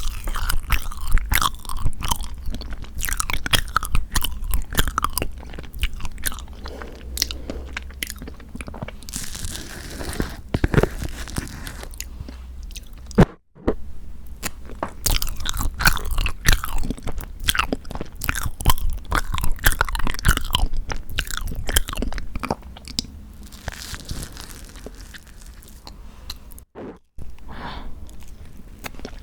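Close-miked eating of soft tofu tiramisu cake: steady wet chewing and mouth smacks made up of many small clicks. The sound drops out twice for a split second.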